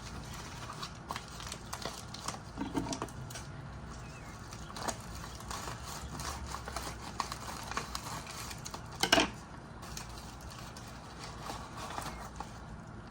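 Small 2-inch concrete curbs for a fingerboard park clacking and tapping as they are handled and set down one after another, with a louder knock about nine seconds in.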